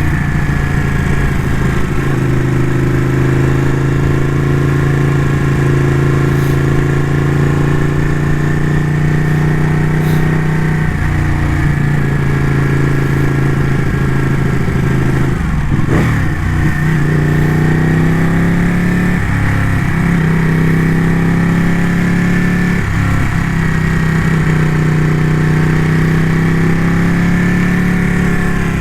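Ducati motorcycle engine running under way at a steady cruise. Its pitch dips and climbs back several times as the throttle is eased and reopened.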